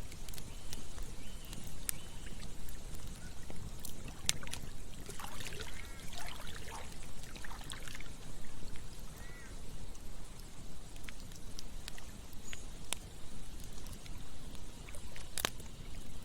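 Campfire crackling with a few sharp pops over the steady rush of flowing river water. A short run of bird calls comes in about five seconds in and again briefly near the middle.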